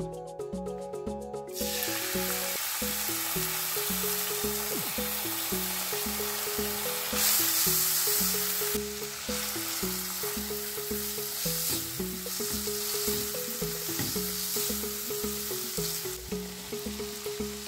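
Chopped green chillies and garlic sizzling in hot oil in a nonstick pan while being stirred with a silicone spatula. The sizzle starts about a second and a half in and grows louder for a couple of seconds around the middle, over background music.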